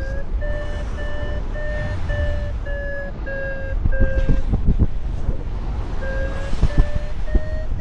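A paragliding variometer beeping about twice a second, the usual signal that the glider is climbing in lift. The beeps pause for about a second and a half in the middle, then resume with the pitch rising. Wind buffets the microphone underneath.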